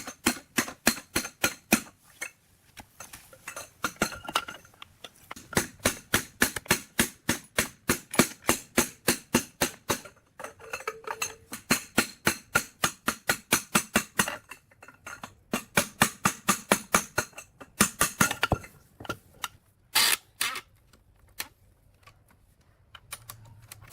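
Metal being struck over and over with a small hammer, about five strikes a second, in runs broken by short pauses. A brief ring follows a strike at about ten seconds, and the last two strikes come near twenty seconds.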